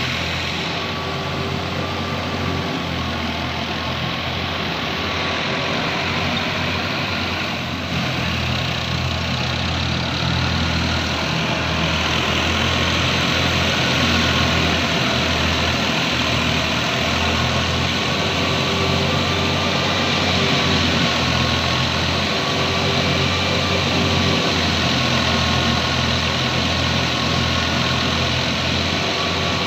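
Heavy farm machine's diesel engine running steadily with a deep, even hum, a little louder after about eight seconds.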